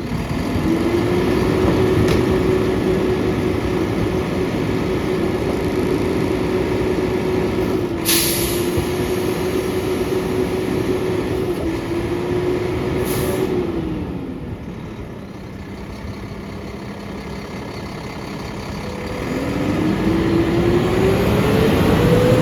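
Diesel engine of a Mack LR garbage truck revving up and holding high while the McNeilus rear-loader packer runs its compaction cycle. It drops back to idle about two-thirds of the way through and then revs up again for the next stroke. Two short hisses of air break in partway through.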